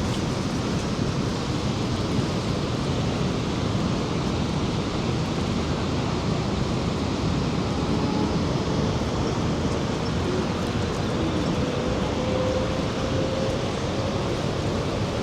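Steady rushing of a large waterfall, the Rhine Falls, a dense, unbroken wash of falling water.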